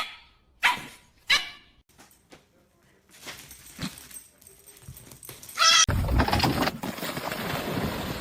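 A dog barks three short, sharp times at the start, and about halfway through gives a single brief, high-pitched yelp. Near the end a loud, rough rushing noise takes over.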